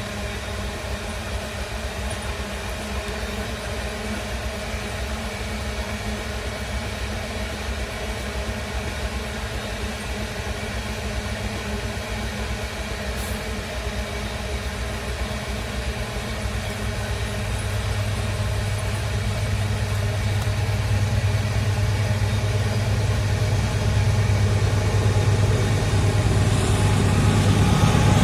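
Diesel-electric freight locomotives hauling an iron-ore train, their engines running steadily and growing louder throughout as the locomotives draw nearer, with a low engine hum strengthening in the second half.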